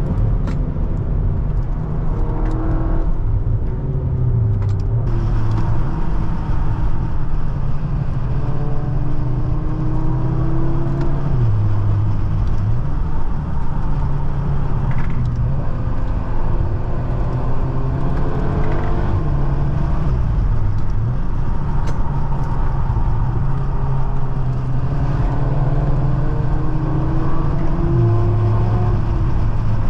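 2019 Cupra Ateca's turbocharged EA888 four-cylinder engine pulling under acceleration. Its note climbs and then drops back several times as the DSG gearbox changes gear, over steady road and tyre noise.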